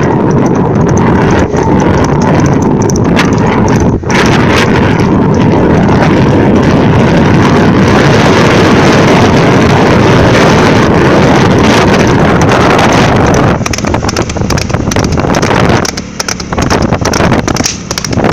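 Loud wind buffeting the microphone of a fast-moving vehicle, mixed with vehicle and road noise. The rush drops briefly a few times near the end.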